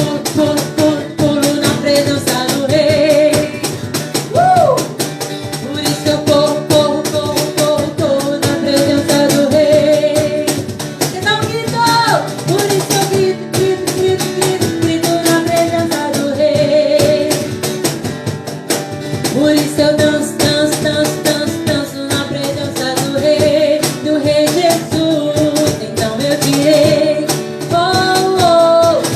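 Upbeat worship song played live: voices singing over instrumental accompaniment with a fast, steady percussive beat.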